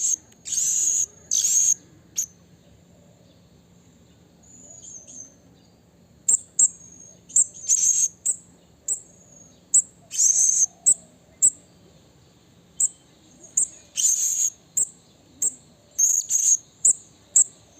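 Blue-crowned hanging parrot (serindit) calling: a run of short, high-pitched, shrill notes, some drawn out into longer screeches. The calls pause for a few seconds after about two seconds, then resume and repeat through the rest. This is the calling used to challenge and lure rival serindit.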